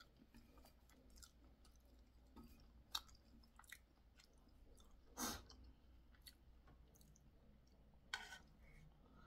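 Faint close-up chewing and mouth sounds of someone eating, with a few short clicks and smacks; the loudest comes a little past the middle, others about three seconds in and near the end.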